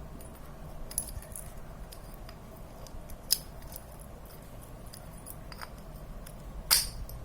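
Small metal bicycle gear parts being handled and fitted together by hand: a few sharp metallic clicks and clinks. The loudest comes near the end.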